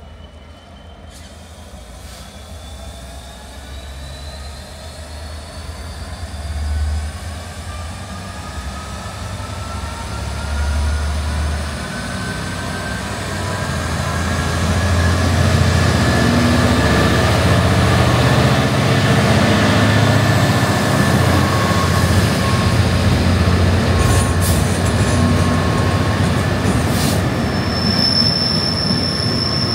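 Colas Rail Class 66 diesel-electric locomotive hauling a freight train, with a failed Class 56 in tow. Its engine and rumble grow steadily louder as it approaches, then stay loud while the locomotives and wagons pass. Gliding squeals from the wheels and rails run throughout, and a steady high squeal starts near the end.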